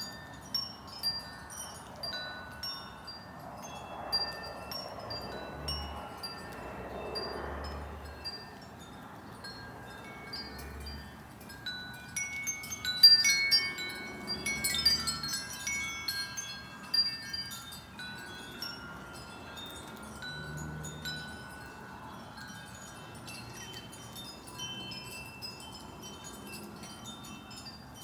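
Wind chimes ringing, with scattered single notes at several pitches and a dense flurry of overlapping strikes about halfway through.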